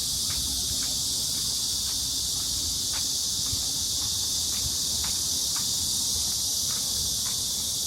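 Steady, high-pitched chorus of summer insects, with a few faint scattered ticks underneath.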